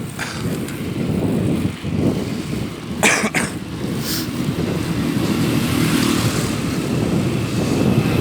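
Riding noise from an electric bike on the move: steady low rumble of wind on the microphone and road noise, with a few short clicks about three seconds in.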